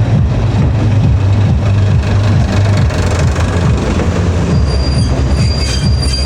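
Train running with a heavy, steady low rumble; a thin high squeal, typical of wheels or brakes, joins about four and a half seconds in.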